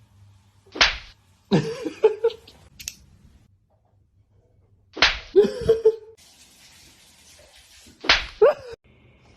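Three sharp slaps, about four and three seconds apart, each followed by a short pitched cry that bends up and down.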